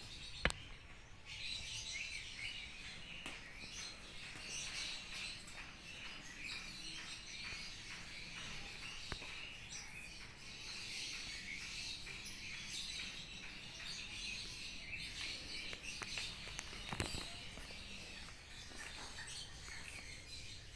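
Birds chirping continuously, many short calls overlapping, with a short click about half a second in and another one later.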